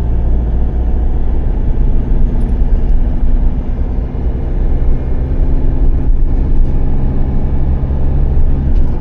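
Motorhome engine running and road noise heard from inside the cab while driving at steady speed, a low drone whose engine note shifts slightly near the end.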